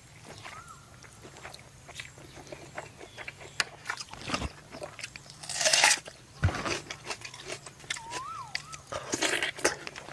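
Close-miked eating: crunching bites and chewing with many sharp clicks, and two louder crunching bursts, one about halfway through and one near the end. A few short squeaky tones that rise and fall are heard near the start and again late on.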